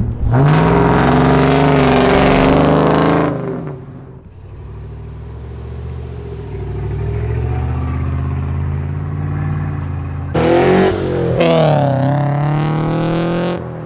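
Car engine revved hard for about three seconds, then settling to a lower, steady idle. Near the end it is blipped twice more, its pitch climbing and dropping each time.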